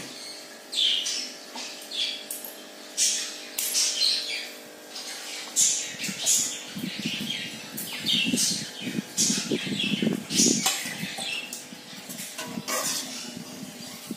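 Small birds chirping: many short, high calls in quick succession, some sliding down in pitch.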